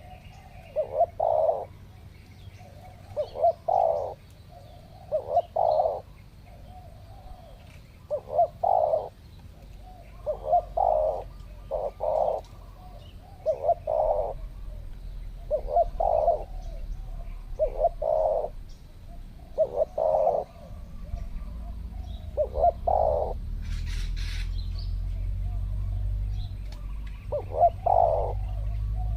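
Spotted doves cooing over and over, each phrase a short group of two or three low notes, coming about every two seconds with a short pause near the end.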